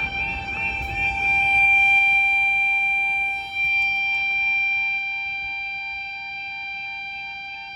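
Level crossing audible warning alarm sounding: a steady high tone together with a yelping warble that repeats about four times a second. It is loudest about two seconds in and eases off a little.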